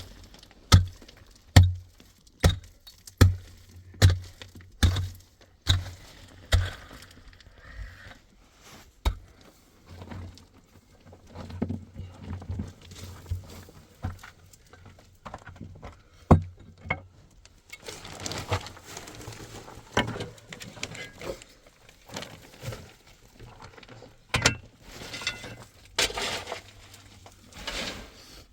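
Repeated sharp strikes, about one every 0.8 seconds for the first several seconds, then scattered knocks and longer scraping sounds.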